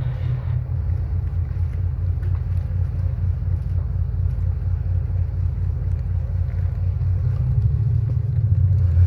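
Boat engine running steadily: a low, even pulsing rumble.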